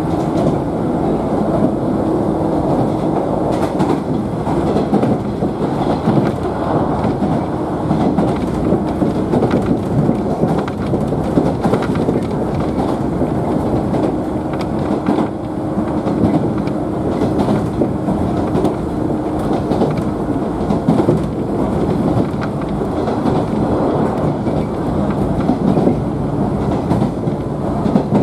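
JNR 113 series electric train running between stations, heard from inside a motor car: steady wheel-and-rail running noise with a faint steady hum that comes and goes.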